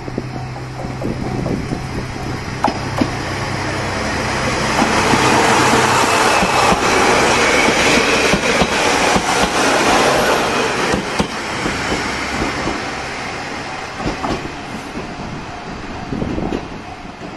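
A passenger train passing close by: its rumble builds as it nears, is loudest about five to ten seconds in, then fades as it pulls away, with the wheels clacking over rail joints as the cars go past.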